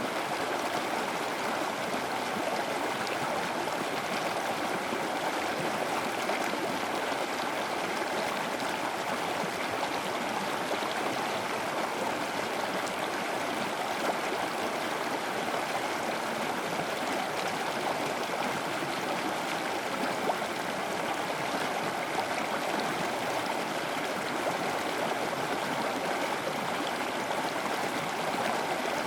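Running water of a stream, a steady, even rush and gurgle.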